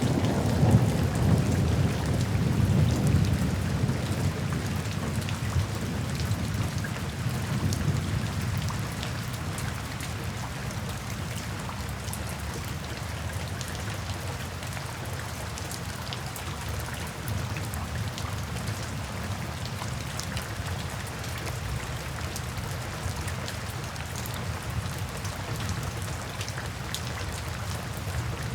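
Steady rain falling, with scattered small drops ticking. A low roll of thunder rumbles over the first several seconds and fades away.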